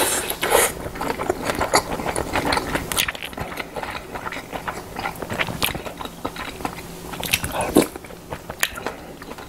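A person chewing a mouthful of hijiki seaweed rice, heard as a steady run of small clicks and mouth sounds.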